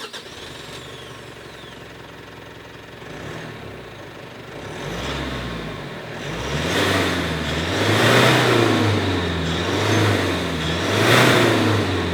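Mitsubishi Triton's 2.4-litre turbo-diesel four-cylinder running steadily, then accelerating hard from a standstill about three seconds in. The engine note climbs and drops back several times as the six-speed automatic shifts up, growing louder through the run.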